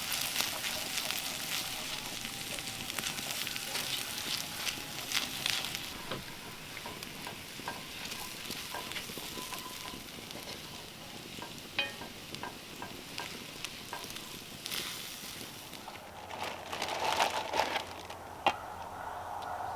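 Food sizzling and crackling as it fries in a pan, with scattered sharp clicks.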